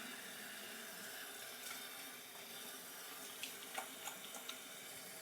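Water tap running steadily into a sink, with a few small clicks and knocks in the second half.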